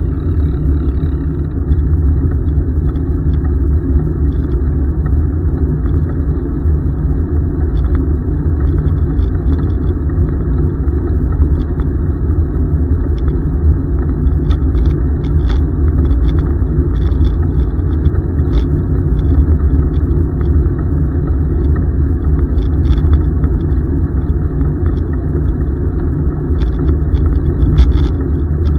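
Steady wind rumble buffeting a microphone carried on a moving bicycle, with faint scattered ticks.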